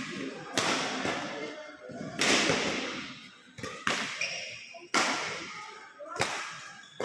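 Repeated sharp thuds, about one every second or so, each ringing out with echo as in a large room, with voices in the background.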